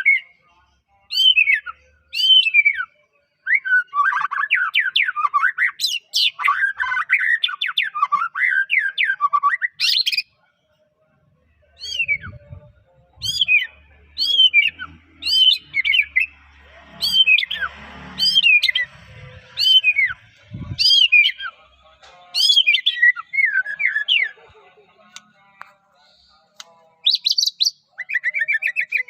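White-rumped shama (murai batu Medan) singing: clear whistled notes that sweep downward, given in series. About a third of the way in comes a fast, dense warbling run, and after a short pause the spaced whistles start again.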